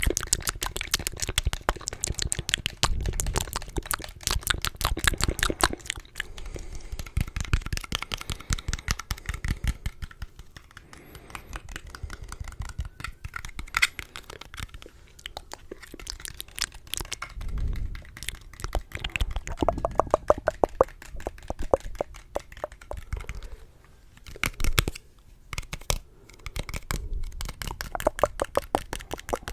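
Close-miked ASMR tapping: rapid runs of small clicks from fingertips and fingernails, many a second, broken by a few brief pauses.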